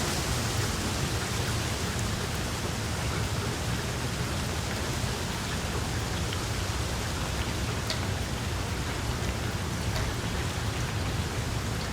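Small wood fire crackling in a fireplace: a steady hiss with scattered sharp pops, a couple of clearer ones in the later part.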